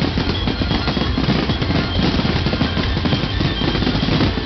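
A dense fireworks barrage: many aerial shells bursting one on another in a fast, unbroken rattle of bangs and crackles.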